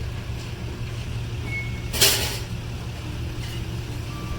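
A vehicle engine idling steadily, with one short, loud burst of noise about two seconds in.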